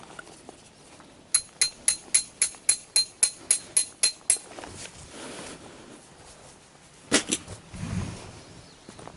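A run of about a dozen sharp metallic taps, evenly spaced at about four a second, then a quick cluster of three more taps and a dull thump near the end.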